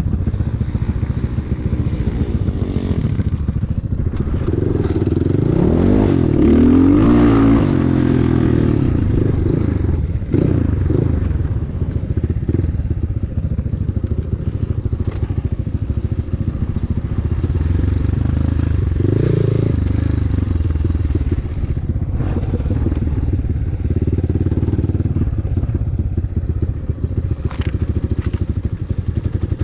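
A group of motorcycles running together, several engines revving at once with pitches rising and falling across one another. They are loudest about six to eight seconds in.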